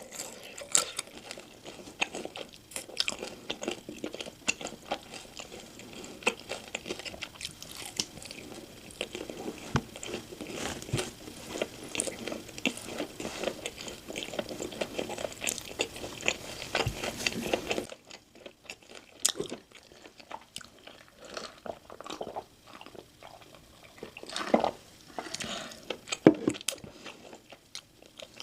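Close-miked eating sounds: biting into and chewing crispy, sauce-coated Korean fried chicken (dakgangjeong), with dense crunching for the first two-thirds, then sparser bites and chews after an abrupt drop in level.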